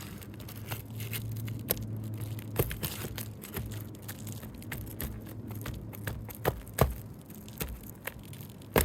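Asphalt roof shingles being pried and pulled loose with a Roof Snake shingle-removal tool: scraping, crackling and sharp clicks as the sealed shingles tear. A low steady hum runs under the first few seconds.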